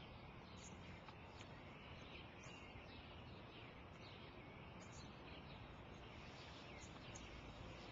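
Near silence: faint outdoor air with scattered short chirps of small birds.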